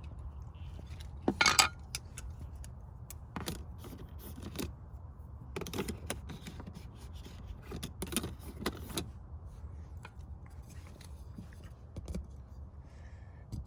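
Small metal items clinking and rattling as they are handled, in irregular bursts over a steady low hum. The loudest rattle comes about a second and a half in.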